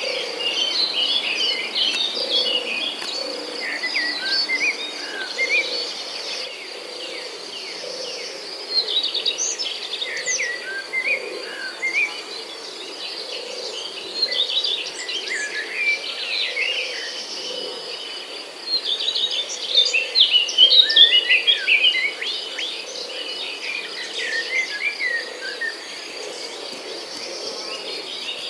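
Several birds chirping and twittering in quick, overlapping calls over a steady high-pitched insect trill, with a soft low call repeating about once a second underneath.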